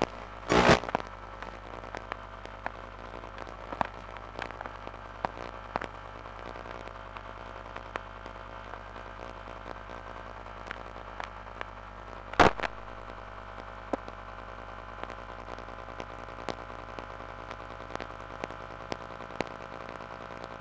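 Steady electrical hum with scattered crackling clicks, a short loud burst of noise just under a second in and one sharp loud crack about twelve seconds in.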